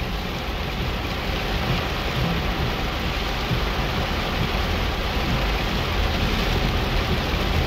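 Heavy rain falling on a car's roof and windshield, heard from inside the cabin, over a steady low rumble of the car driving along a flooded road.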